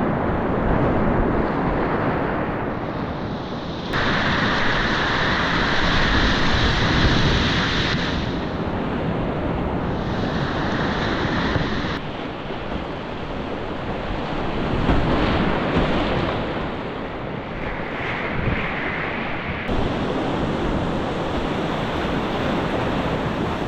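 Rushing whitewater of a mountain river, with wind buffeting the microphone. The noise of the water swells louder and hissier for a few seconds at a time, several times.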